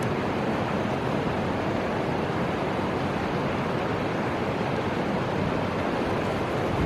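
Steady rushing outdoor noise of wind and flowing river water, even and unchanging, with no train passing.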